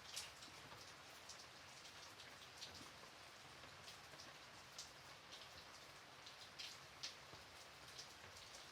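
Gentle, light rain: a quiet steady patter with individual drops ticking out now and then, a few louder than the rest.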